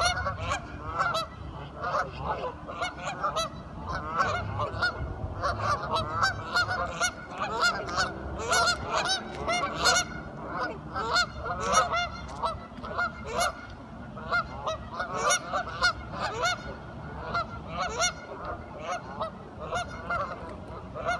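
A flock of ducks quacking, many short calls overlapping with one another without pause.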